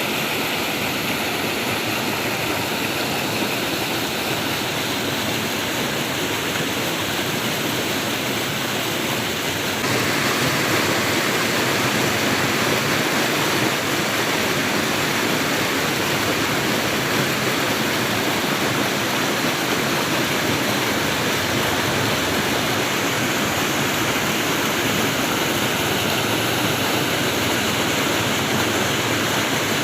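Flowing water rushing steadily, like a stream or small waterfall, getting slightly louder and fuller about ten seconds in.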